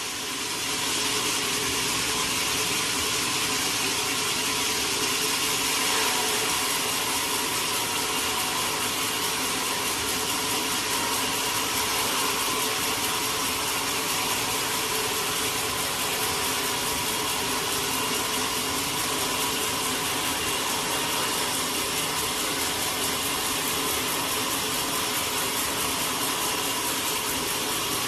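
Sawmill machinery running steadily: a continuous hiss with a motor hum beneath it, unchanging throughout.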